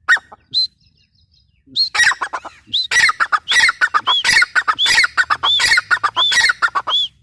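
Gray francolin calling: two short notes, then from about two seconds in a fast, loud run of repeated high notes lasting about five seconds that stops suddenly.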